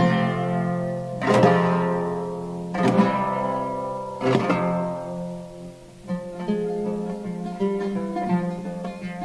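Instrumental music on a plucked string instrument: strong strummed chords about every second and a half that ring out and fade, then from about six seconds in a quieter, busier run of single notes.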